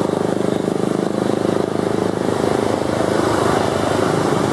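Beech G36 Bonanza light aircraft, piston engines and propellers, running with a steady drone.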